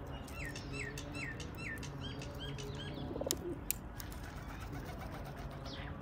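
A small bird calling a quick series of about seven short, repeated chirps, then two sharp clicks about half a second apart.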